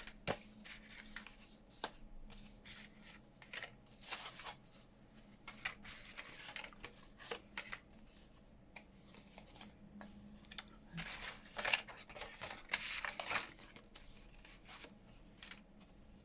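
Sheets of paper and card being handled and shuffled on a desk: a series of soft rustles and light clicks, with a longer run of rustling about two-thirds of the way through.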